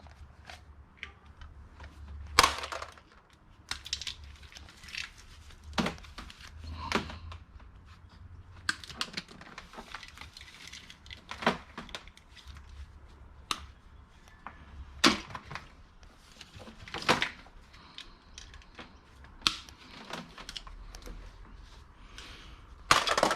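Irregular clicks and clacks of small plastic and metal scrap parts being handled and set down while being sorted. The knocks are spaced unevenly, a second or two apart, with a louder clatter near the end.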